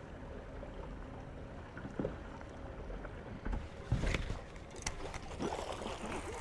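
Faint background noise aboard a fishing boat, with a few soft knocks and handling sounds; the loudest, about four seconds in, comes with a fishing rod being jerked back to set the hook on a bass.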